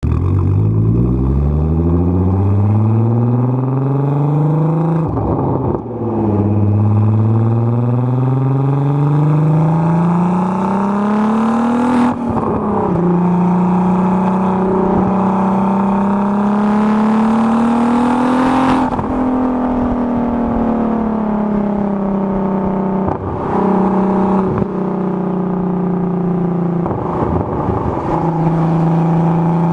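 Turbocharged VW VR6 engine in an MK4 Golf accelerating hard through the gears. Its note climbs in pitch and breaks briefly at each gear change, about five, twelve and nineteen seconds in. It then holds a steadier note, with two short dips near the end.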